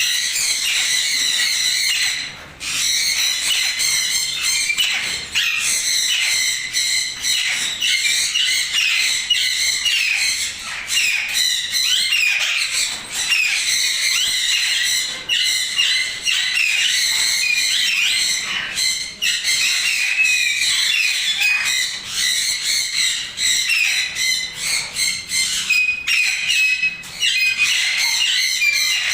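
Many parrots chattering and squawking at once: a constant, dense mix of high-pitched chirps and short squawks.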